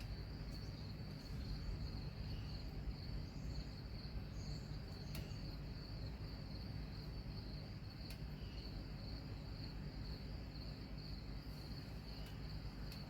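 Crickets chirping in a steady, high, pulsing chorus over a low background rumble, with a couple of faint clicks.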